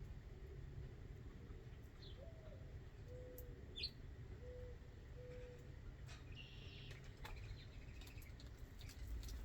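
Backyard birds calling faintly: a few short high chirps, and a soft low call of one rising-and-falling note followed by three short, evenly spaced notes.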